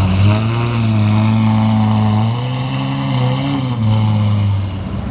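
A car engine running at low revs nearby, its note rising slightly about halfway through, settling back a second later, then fading near the end.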